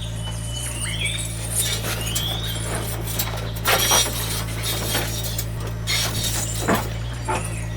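A steady low hum, with two short rising squeaks in the first couple of seconds, then a scatter of light clinks and taps.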